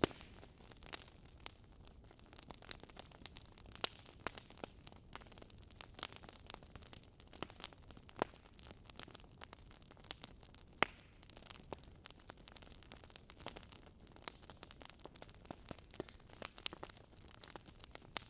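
Wood fire burning in a fireplace: a low hiss with irregular crackles and sharp pops, a couple of them louder.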